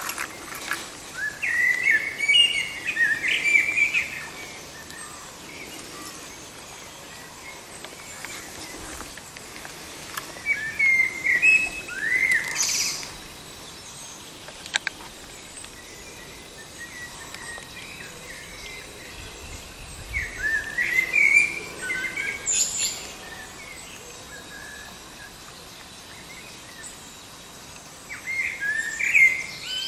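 A bird singing in repeated phrases: four bursts of quick, warbling notes, each about three seconds long, roughly every eight to nine seconds.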